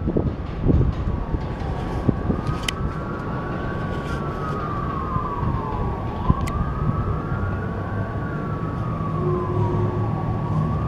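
Emergency vehicle siren on the wail setting, slowly rising and falling in pitch about every four seconds, over a steady low rumble.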